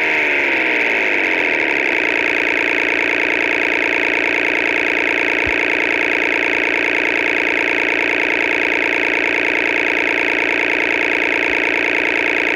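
Synthesized imitation of a Honda NSX C30A V6 engine made with synthesizer plugins: the revs fall and settle to a steady idle about two seconds in.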